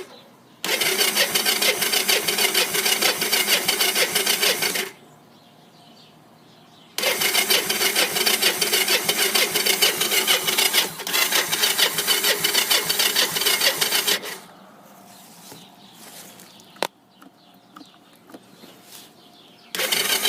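Three-wheeler ATV's electric starter cranking the cold engine, with the choke on, in two long bursts and a third starting near the end. The engine turns over with a fast, even rhythm but does not start. A single sharp click comes in the second pause.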